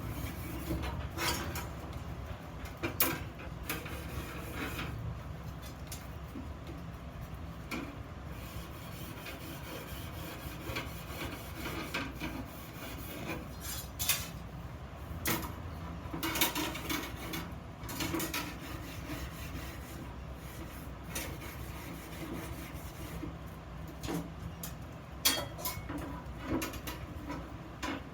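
Hand work on small steel parts: irregular scraping and rubbing, broken by scattered metal clinks and knocks.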